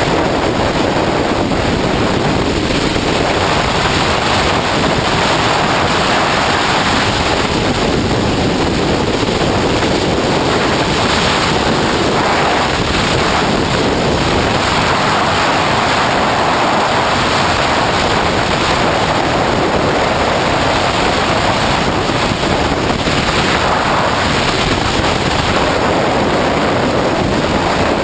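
Loud, steady wind rush on the microphone of a camera riding on a sportbike at freeway speed, swelling and easing now and then, with the bike's own sound buried under it.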